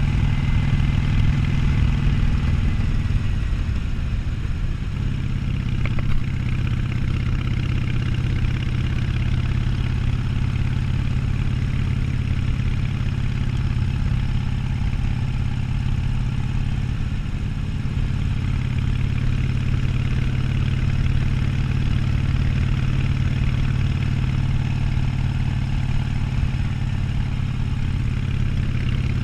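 Harley-Davidson Sportster 1200's air-cooled V-twin engine running with a low, steady note. Its pitch shifts in the first few seconds, then holds even.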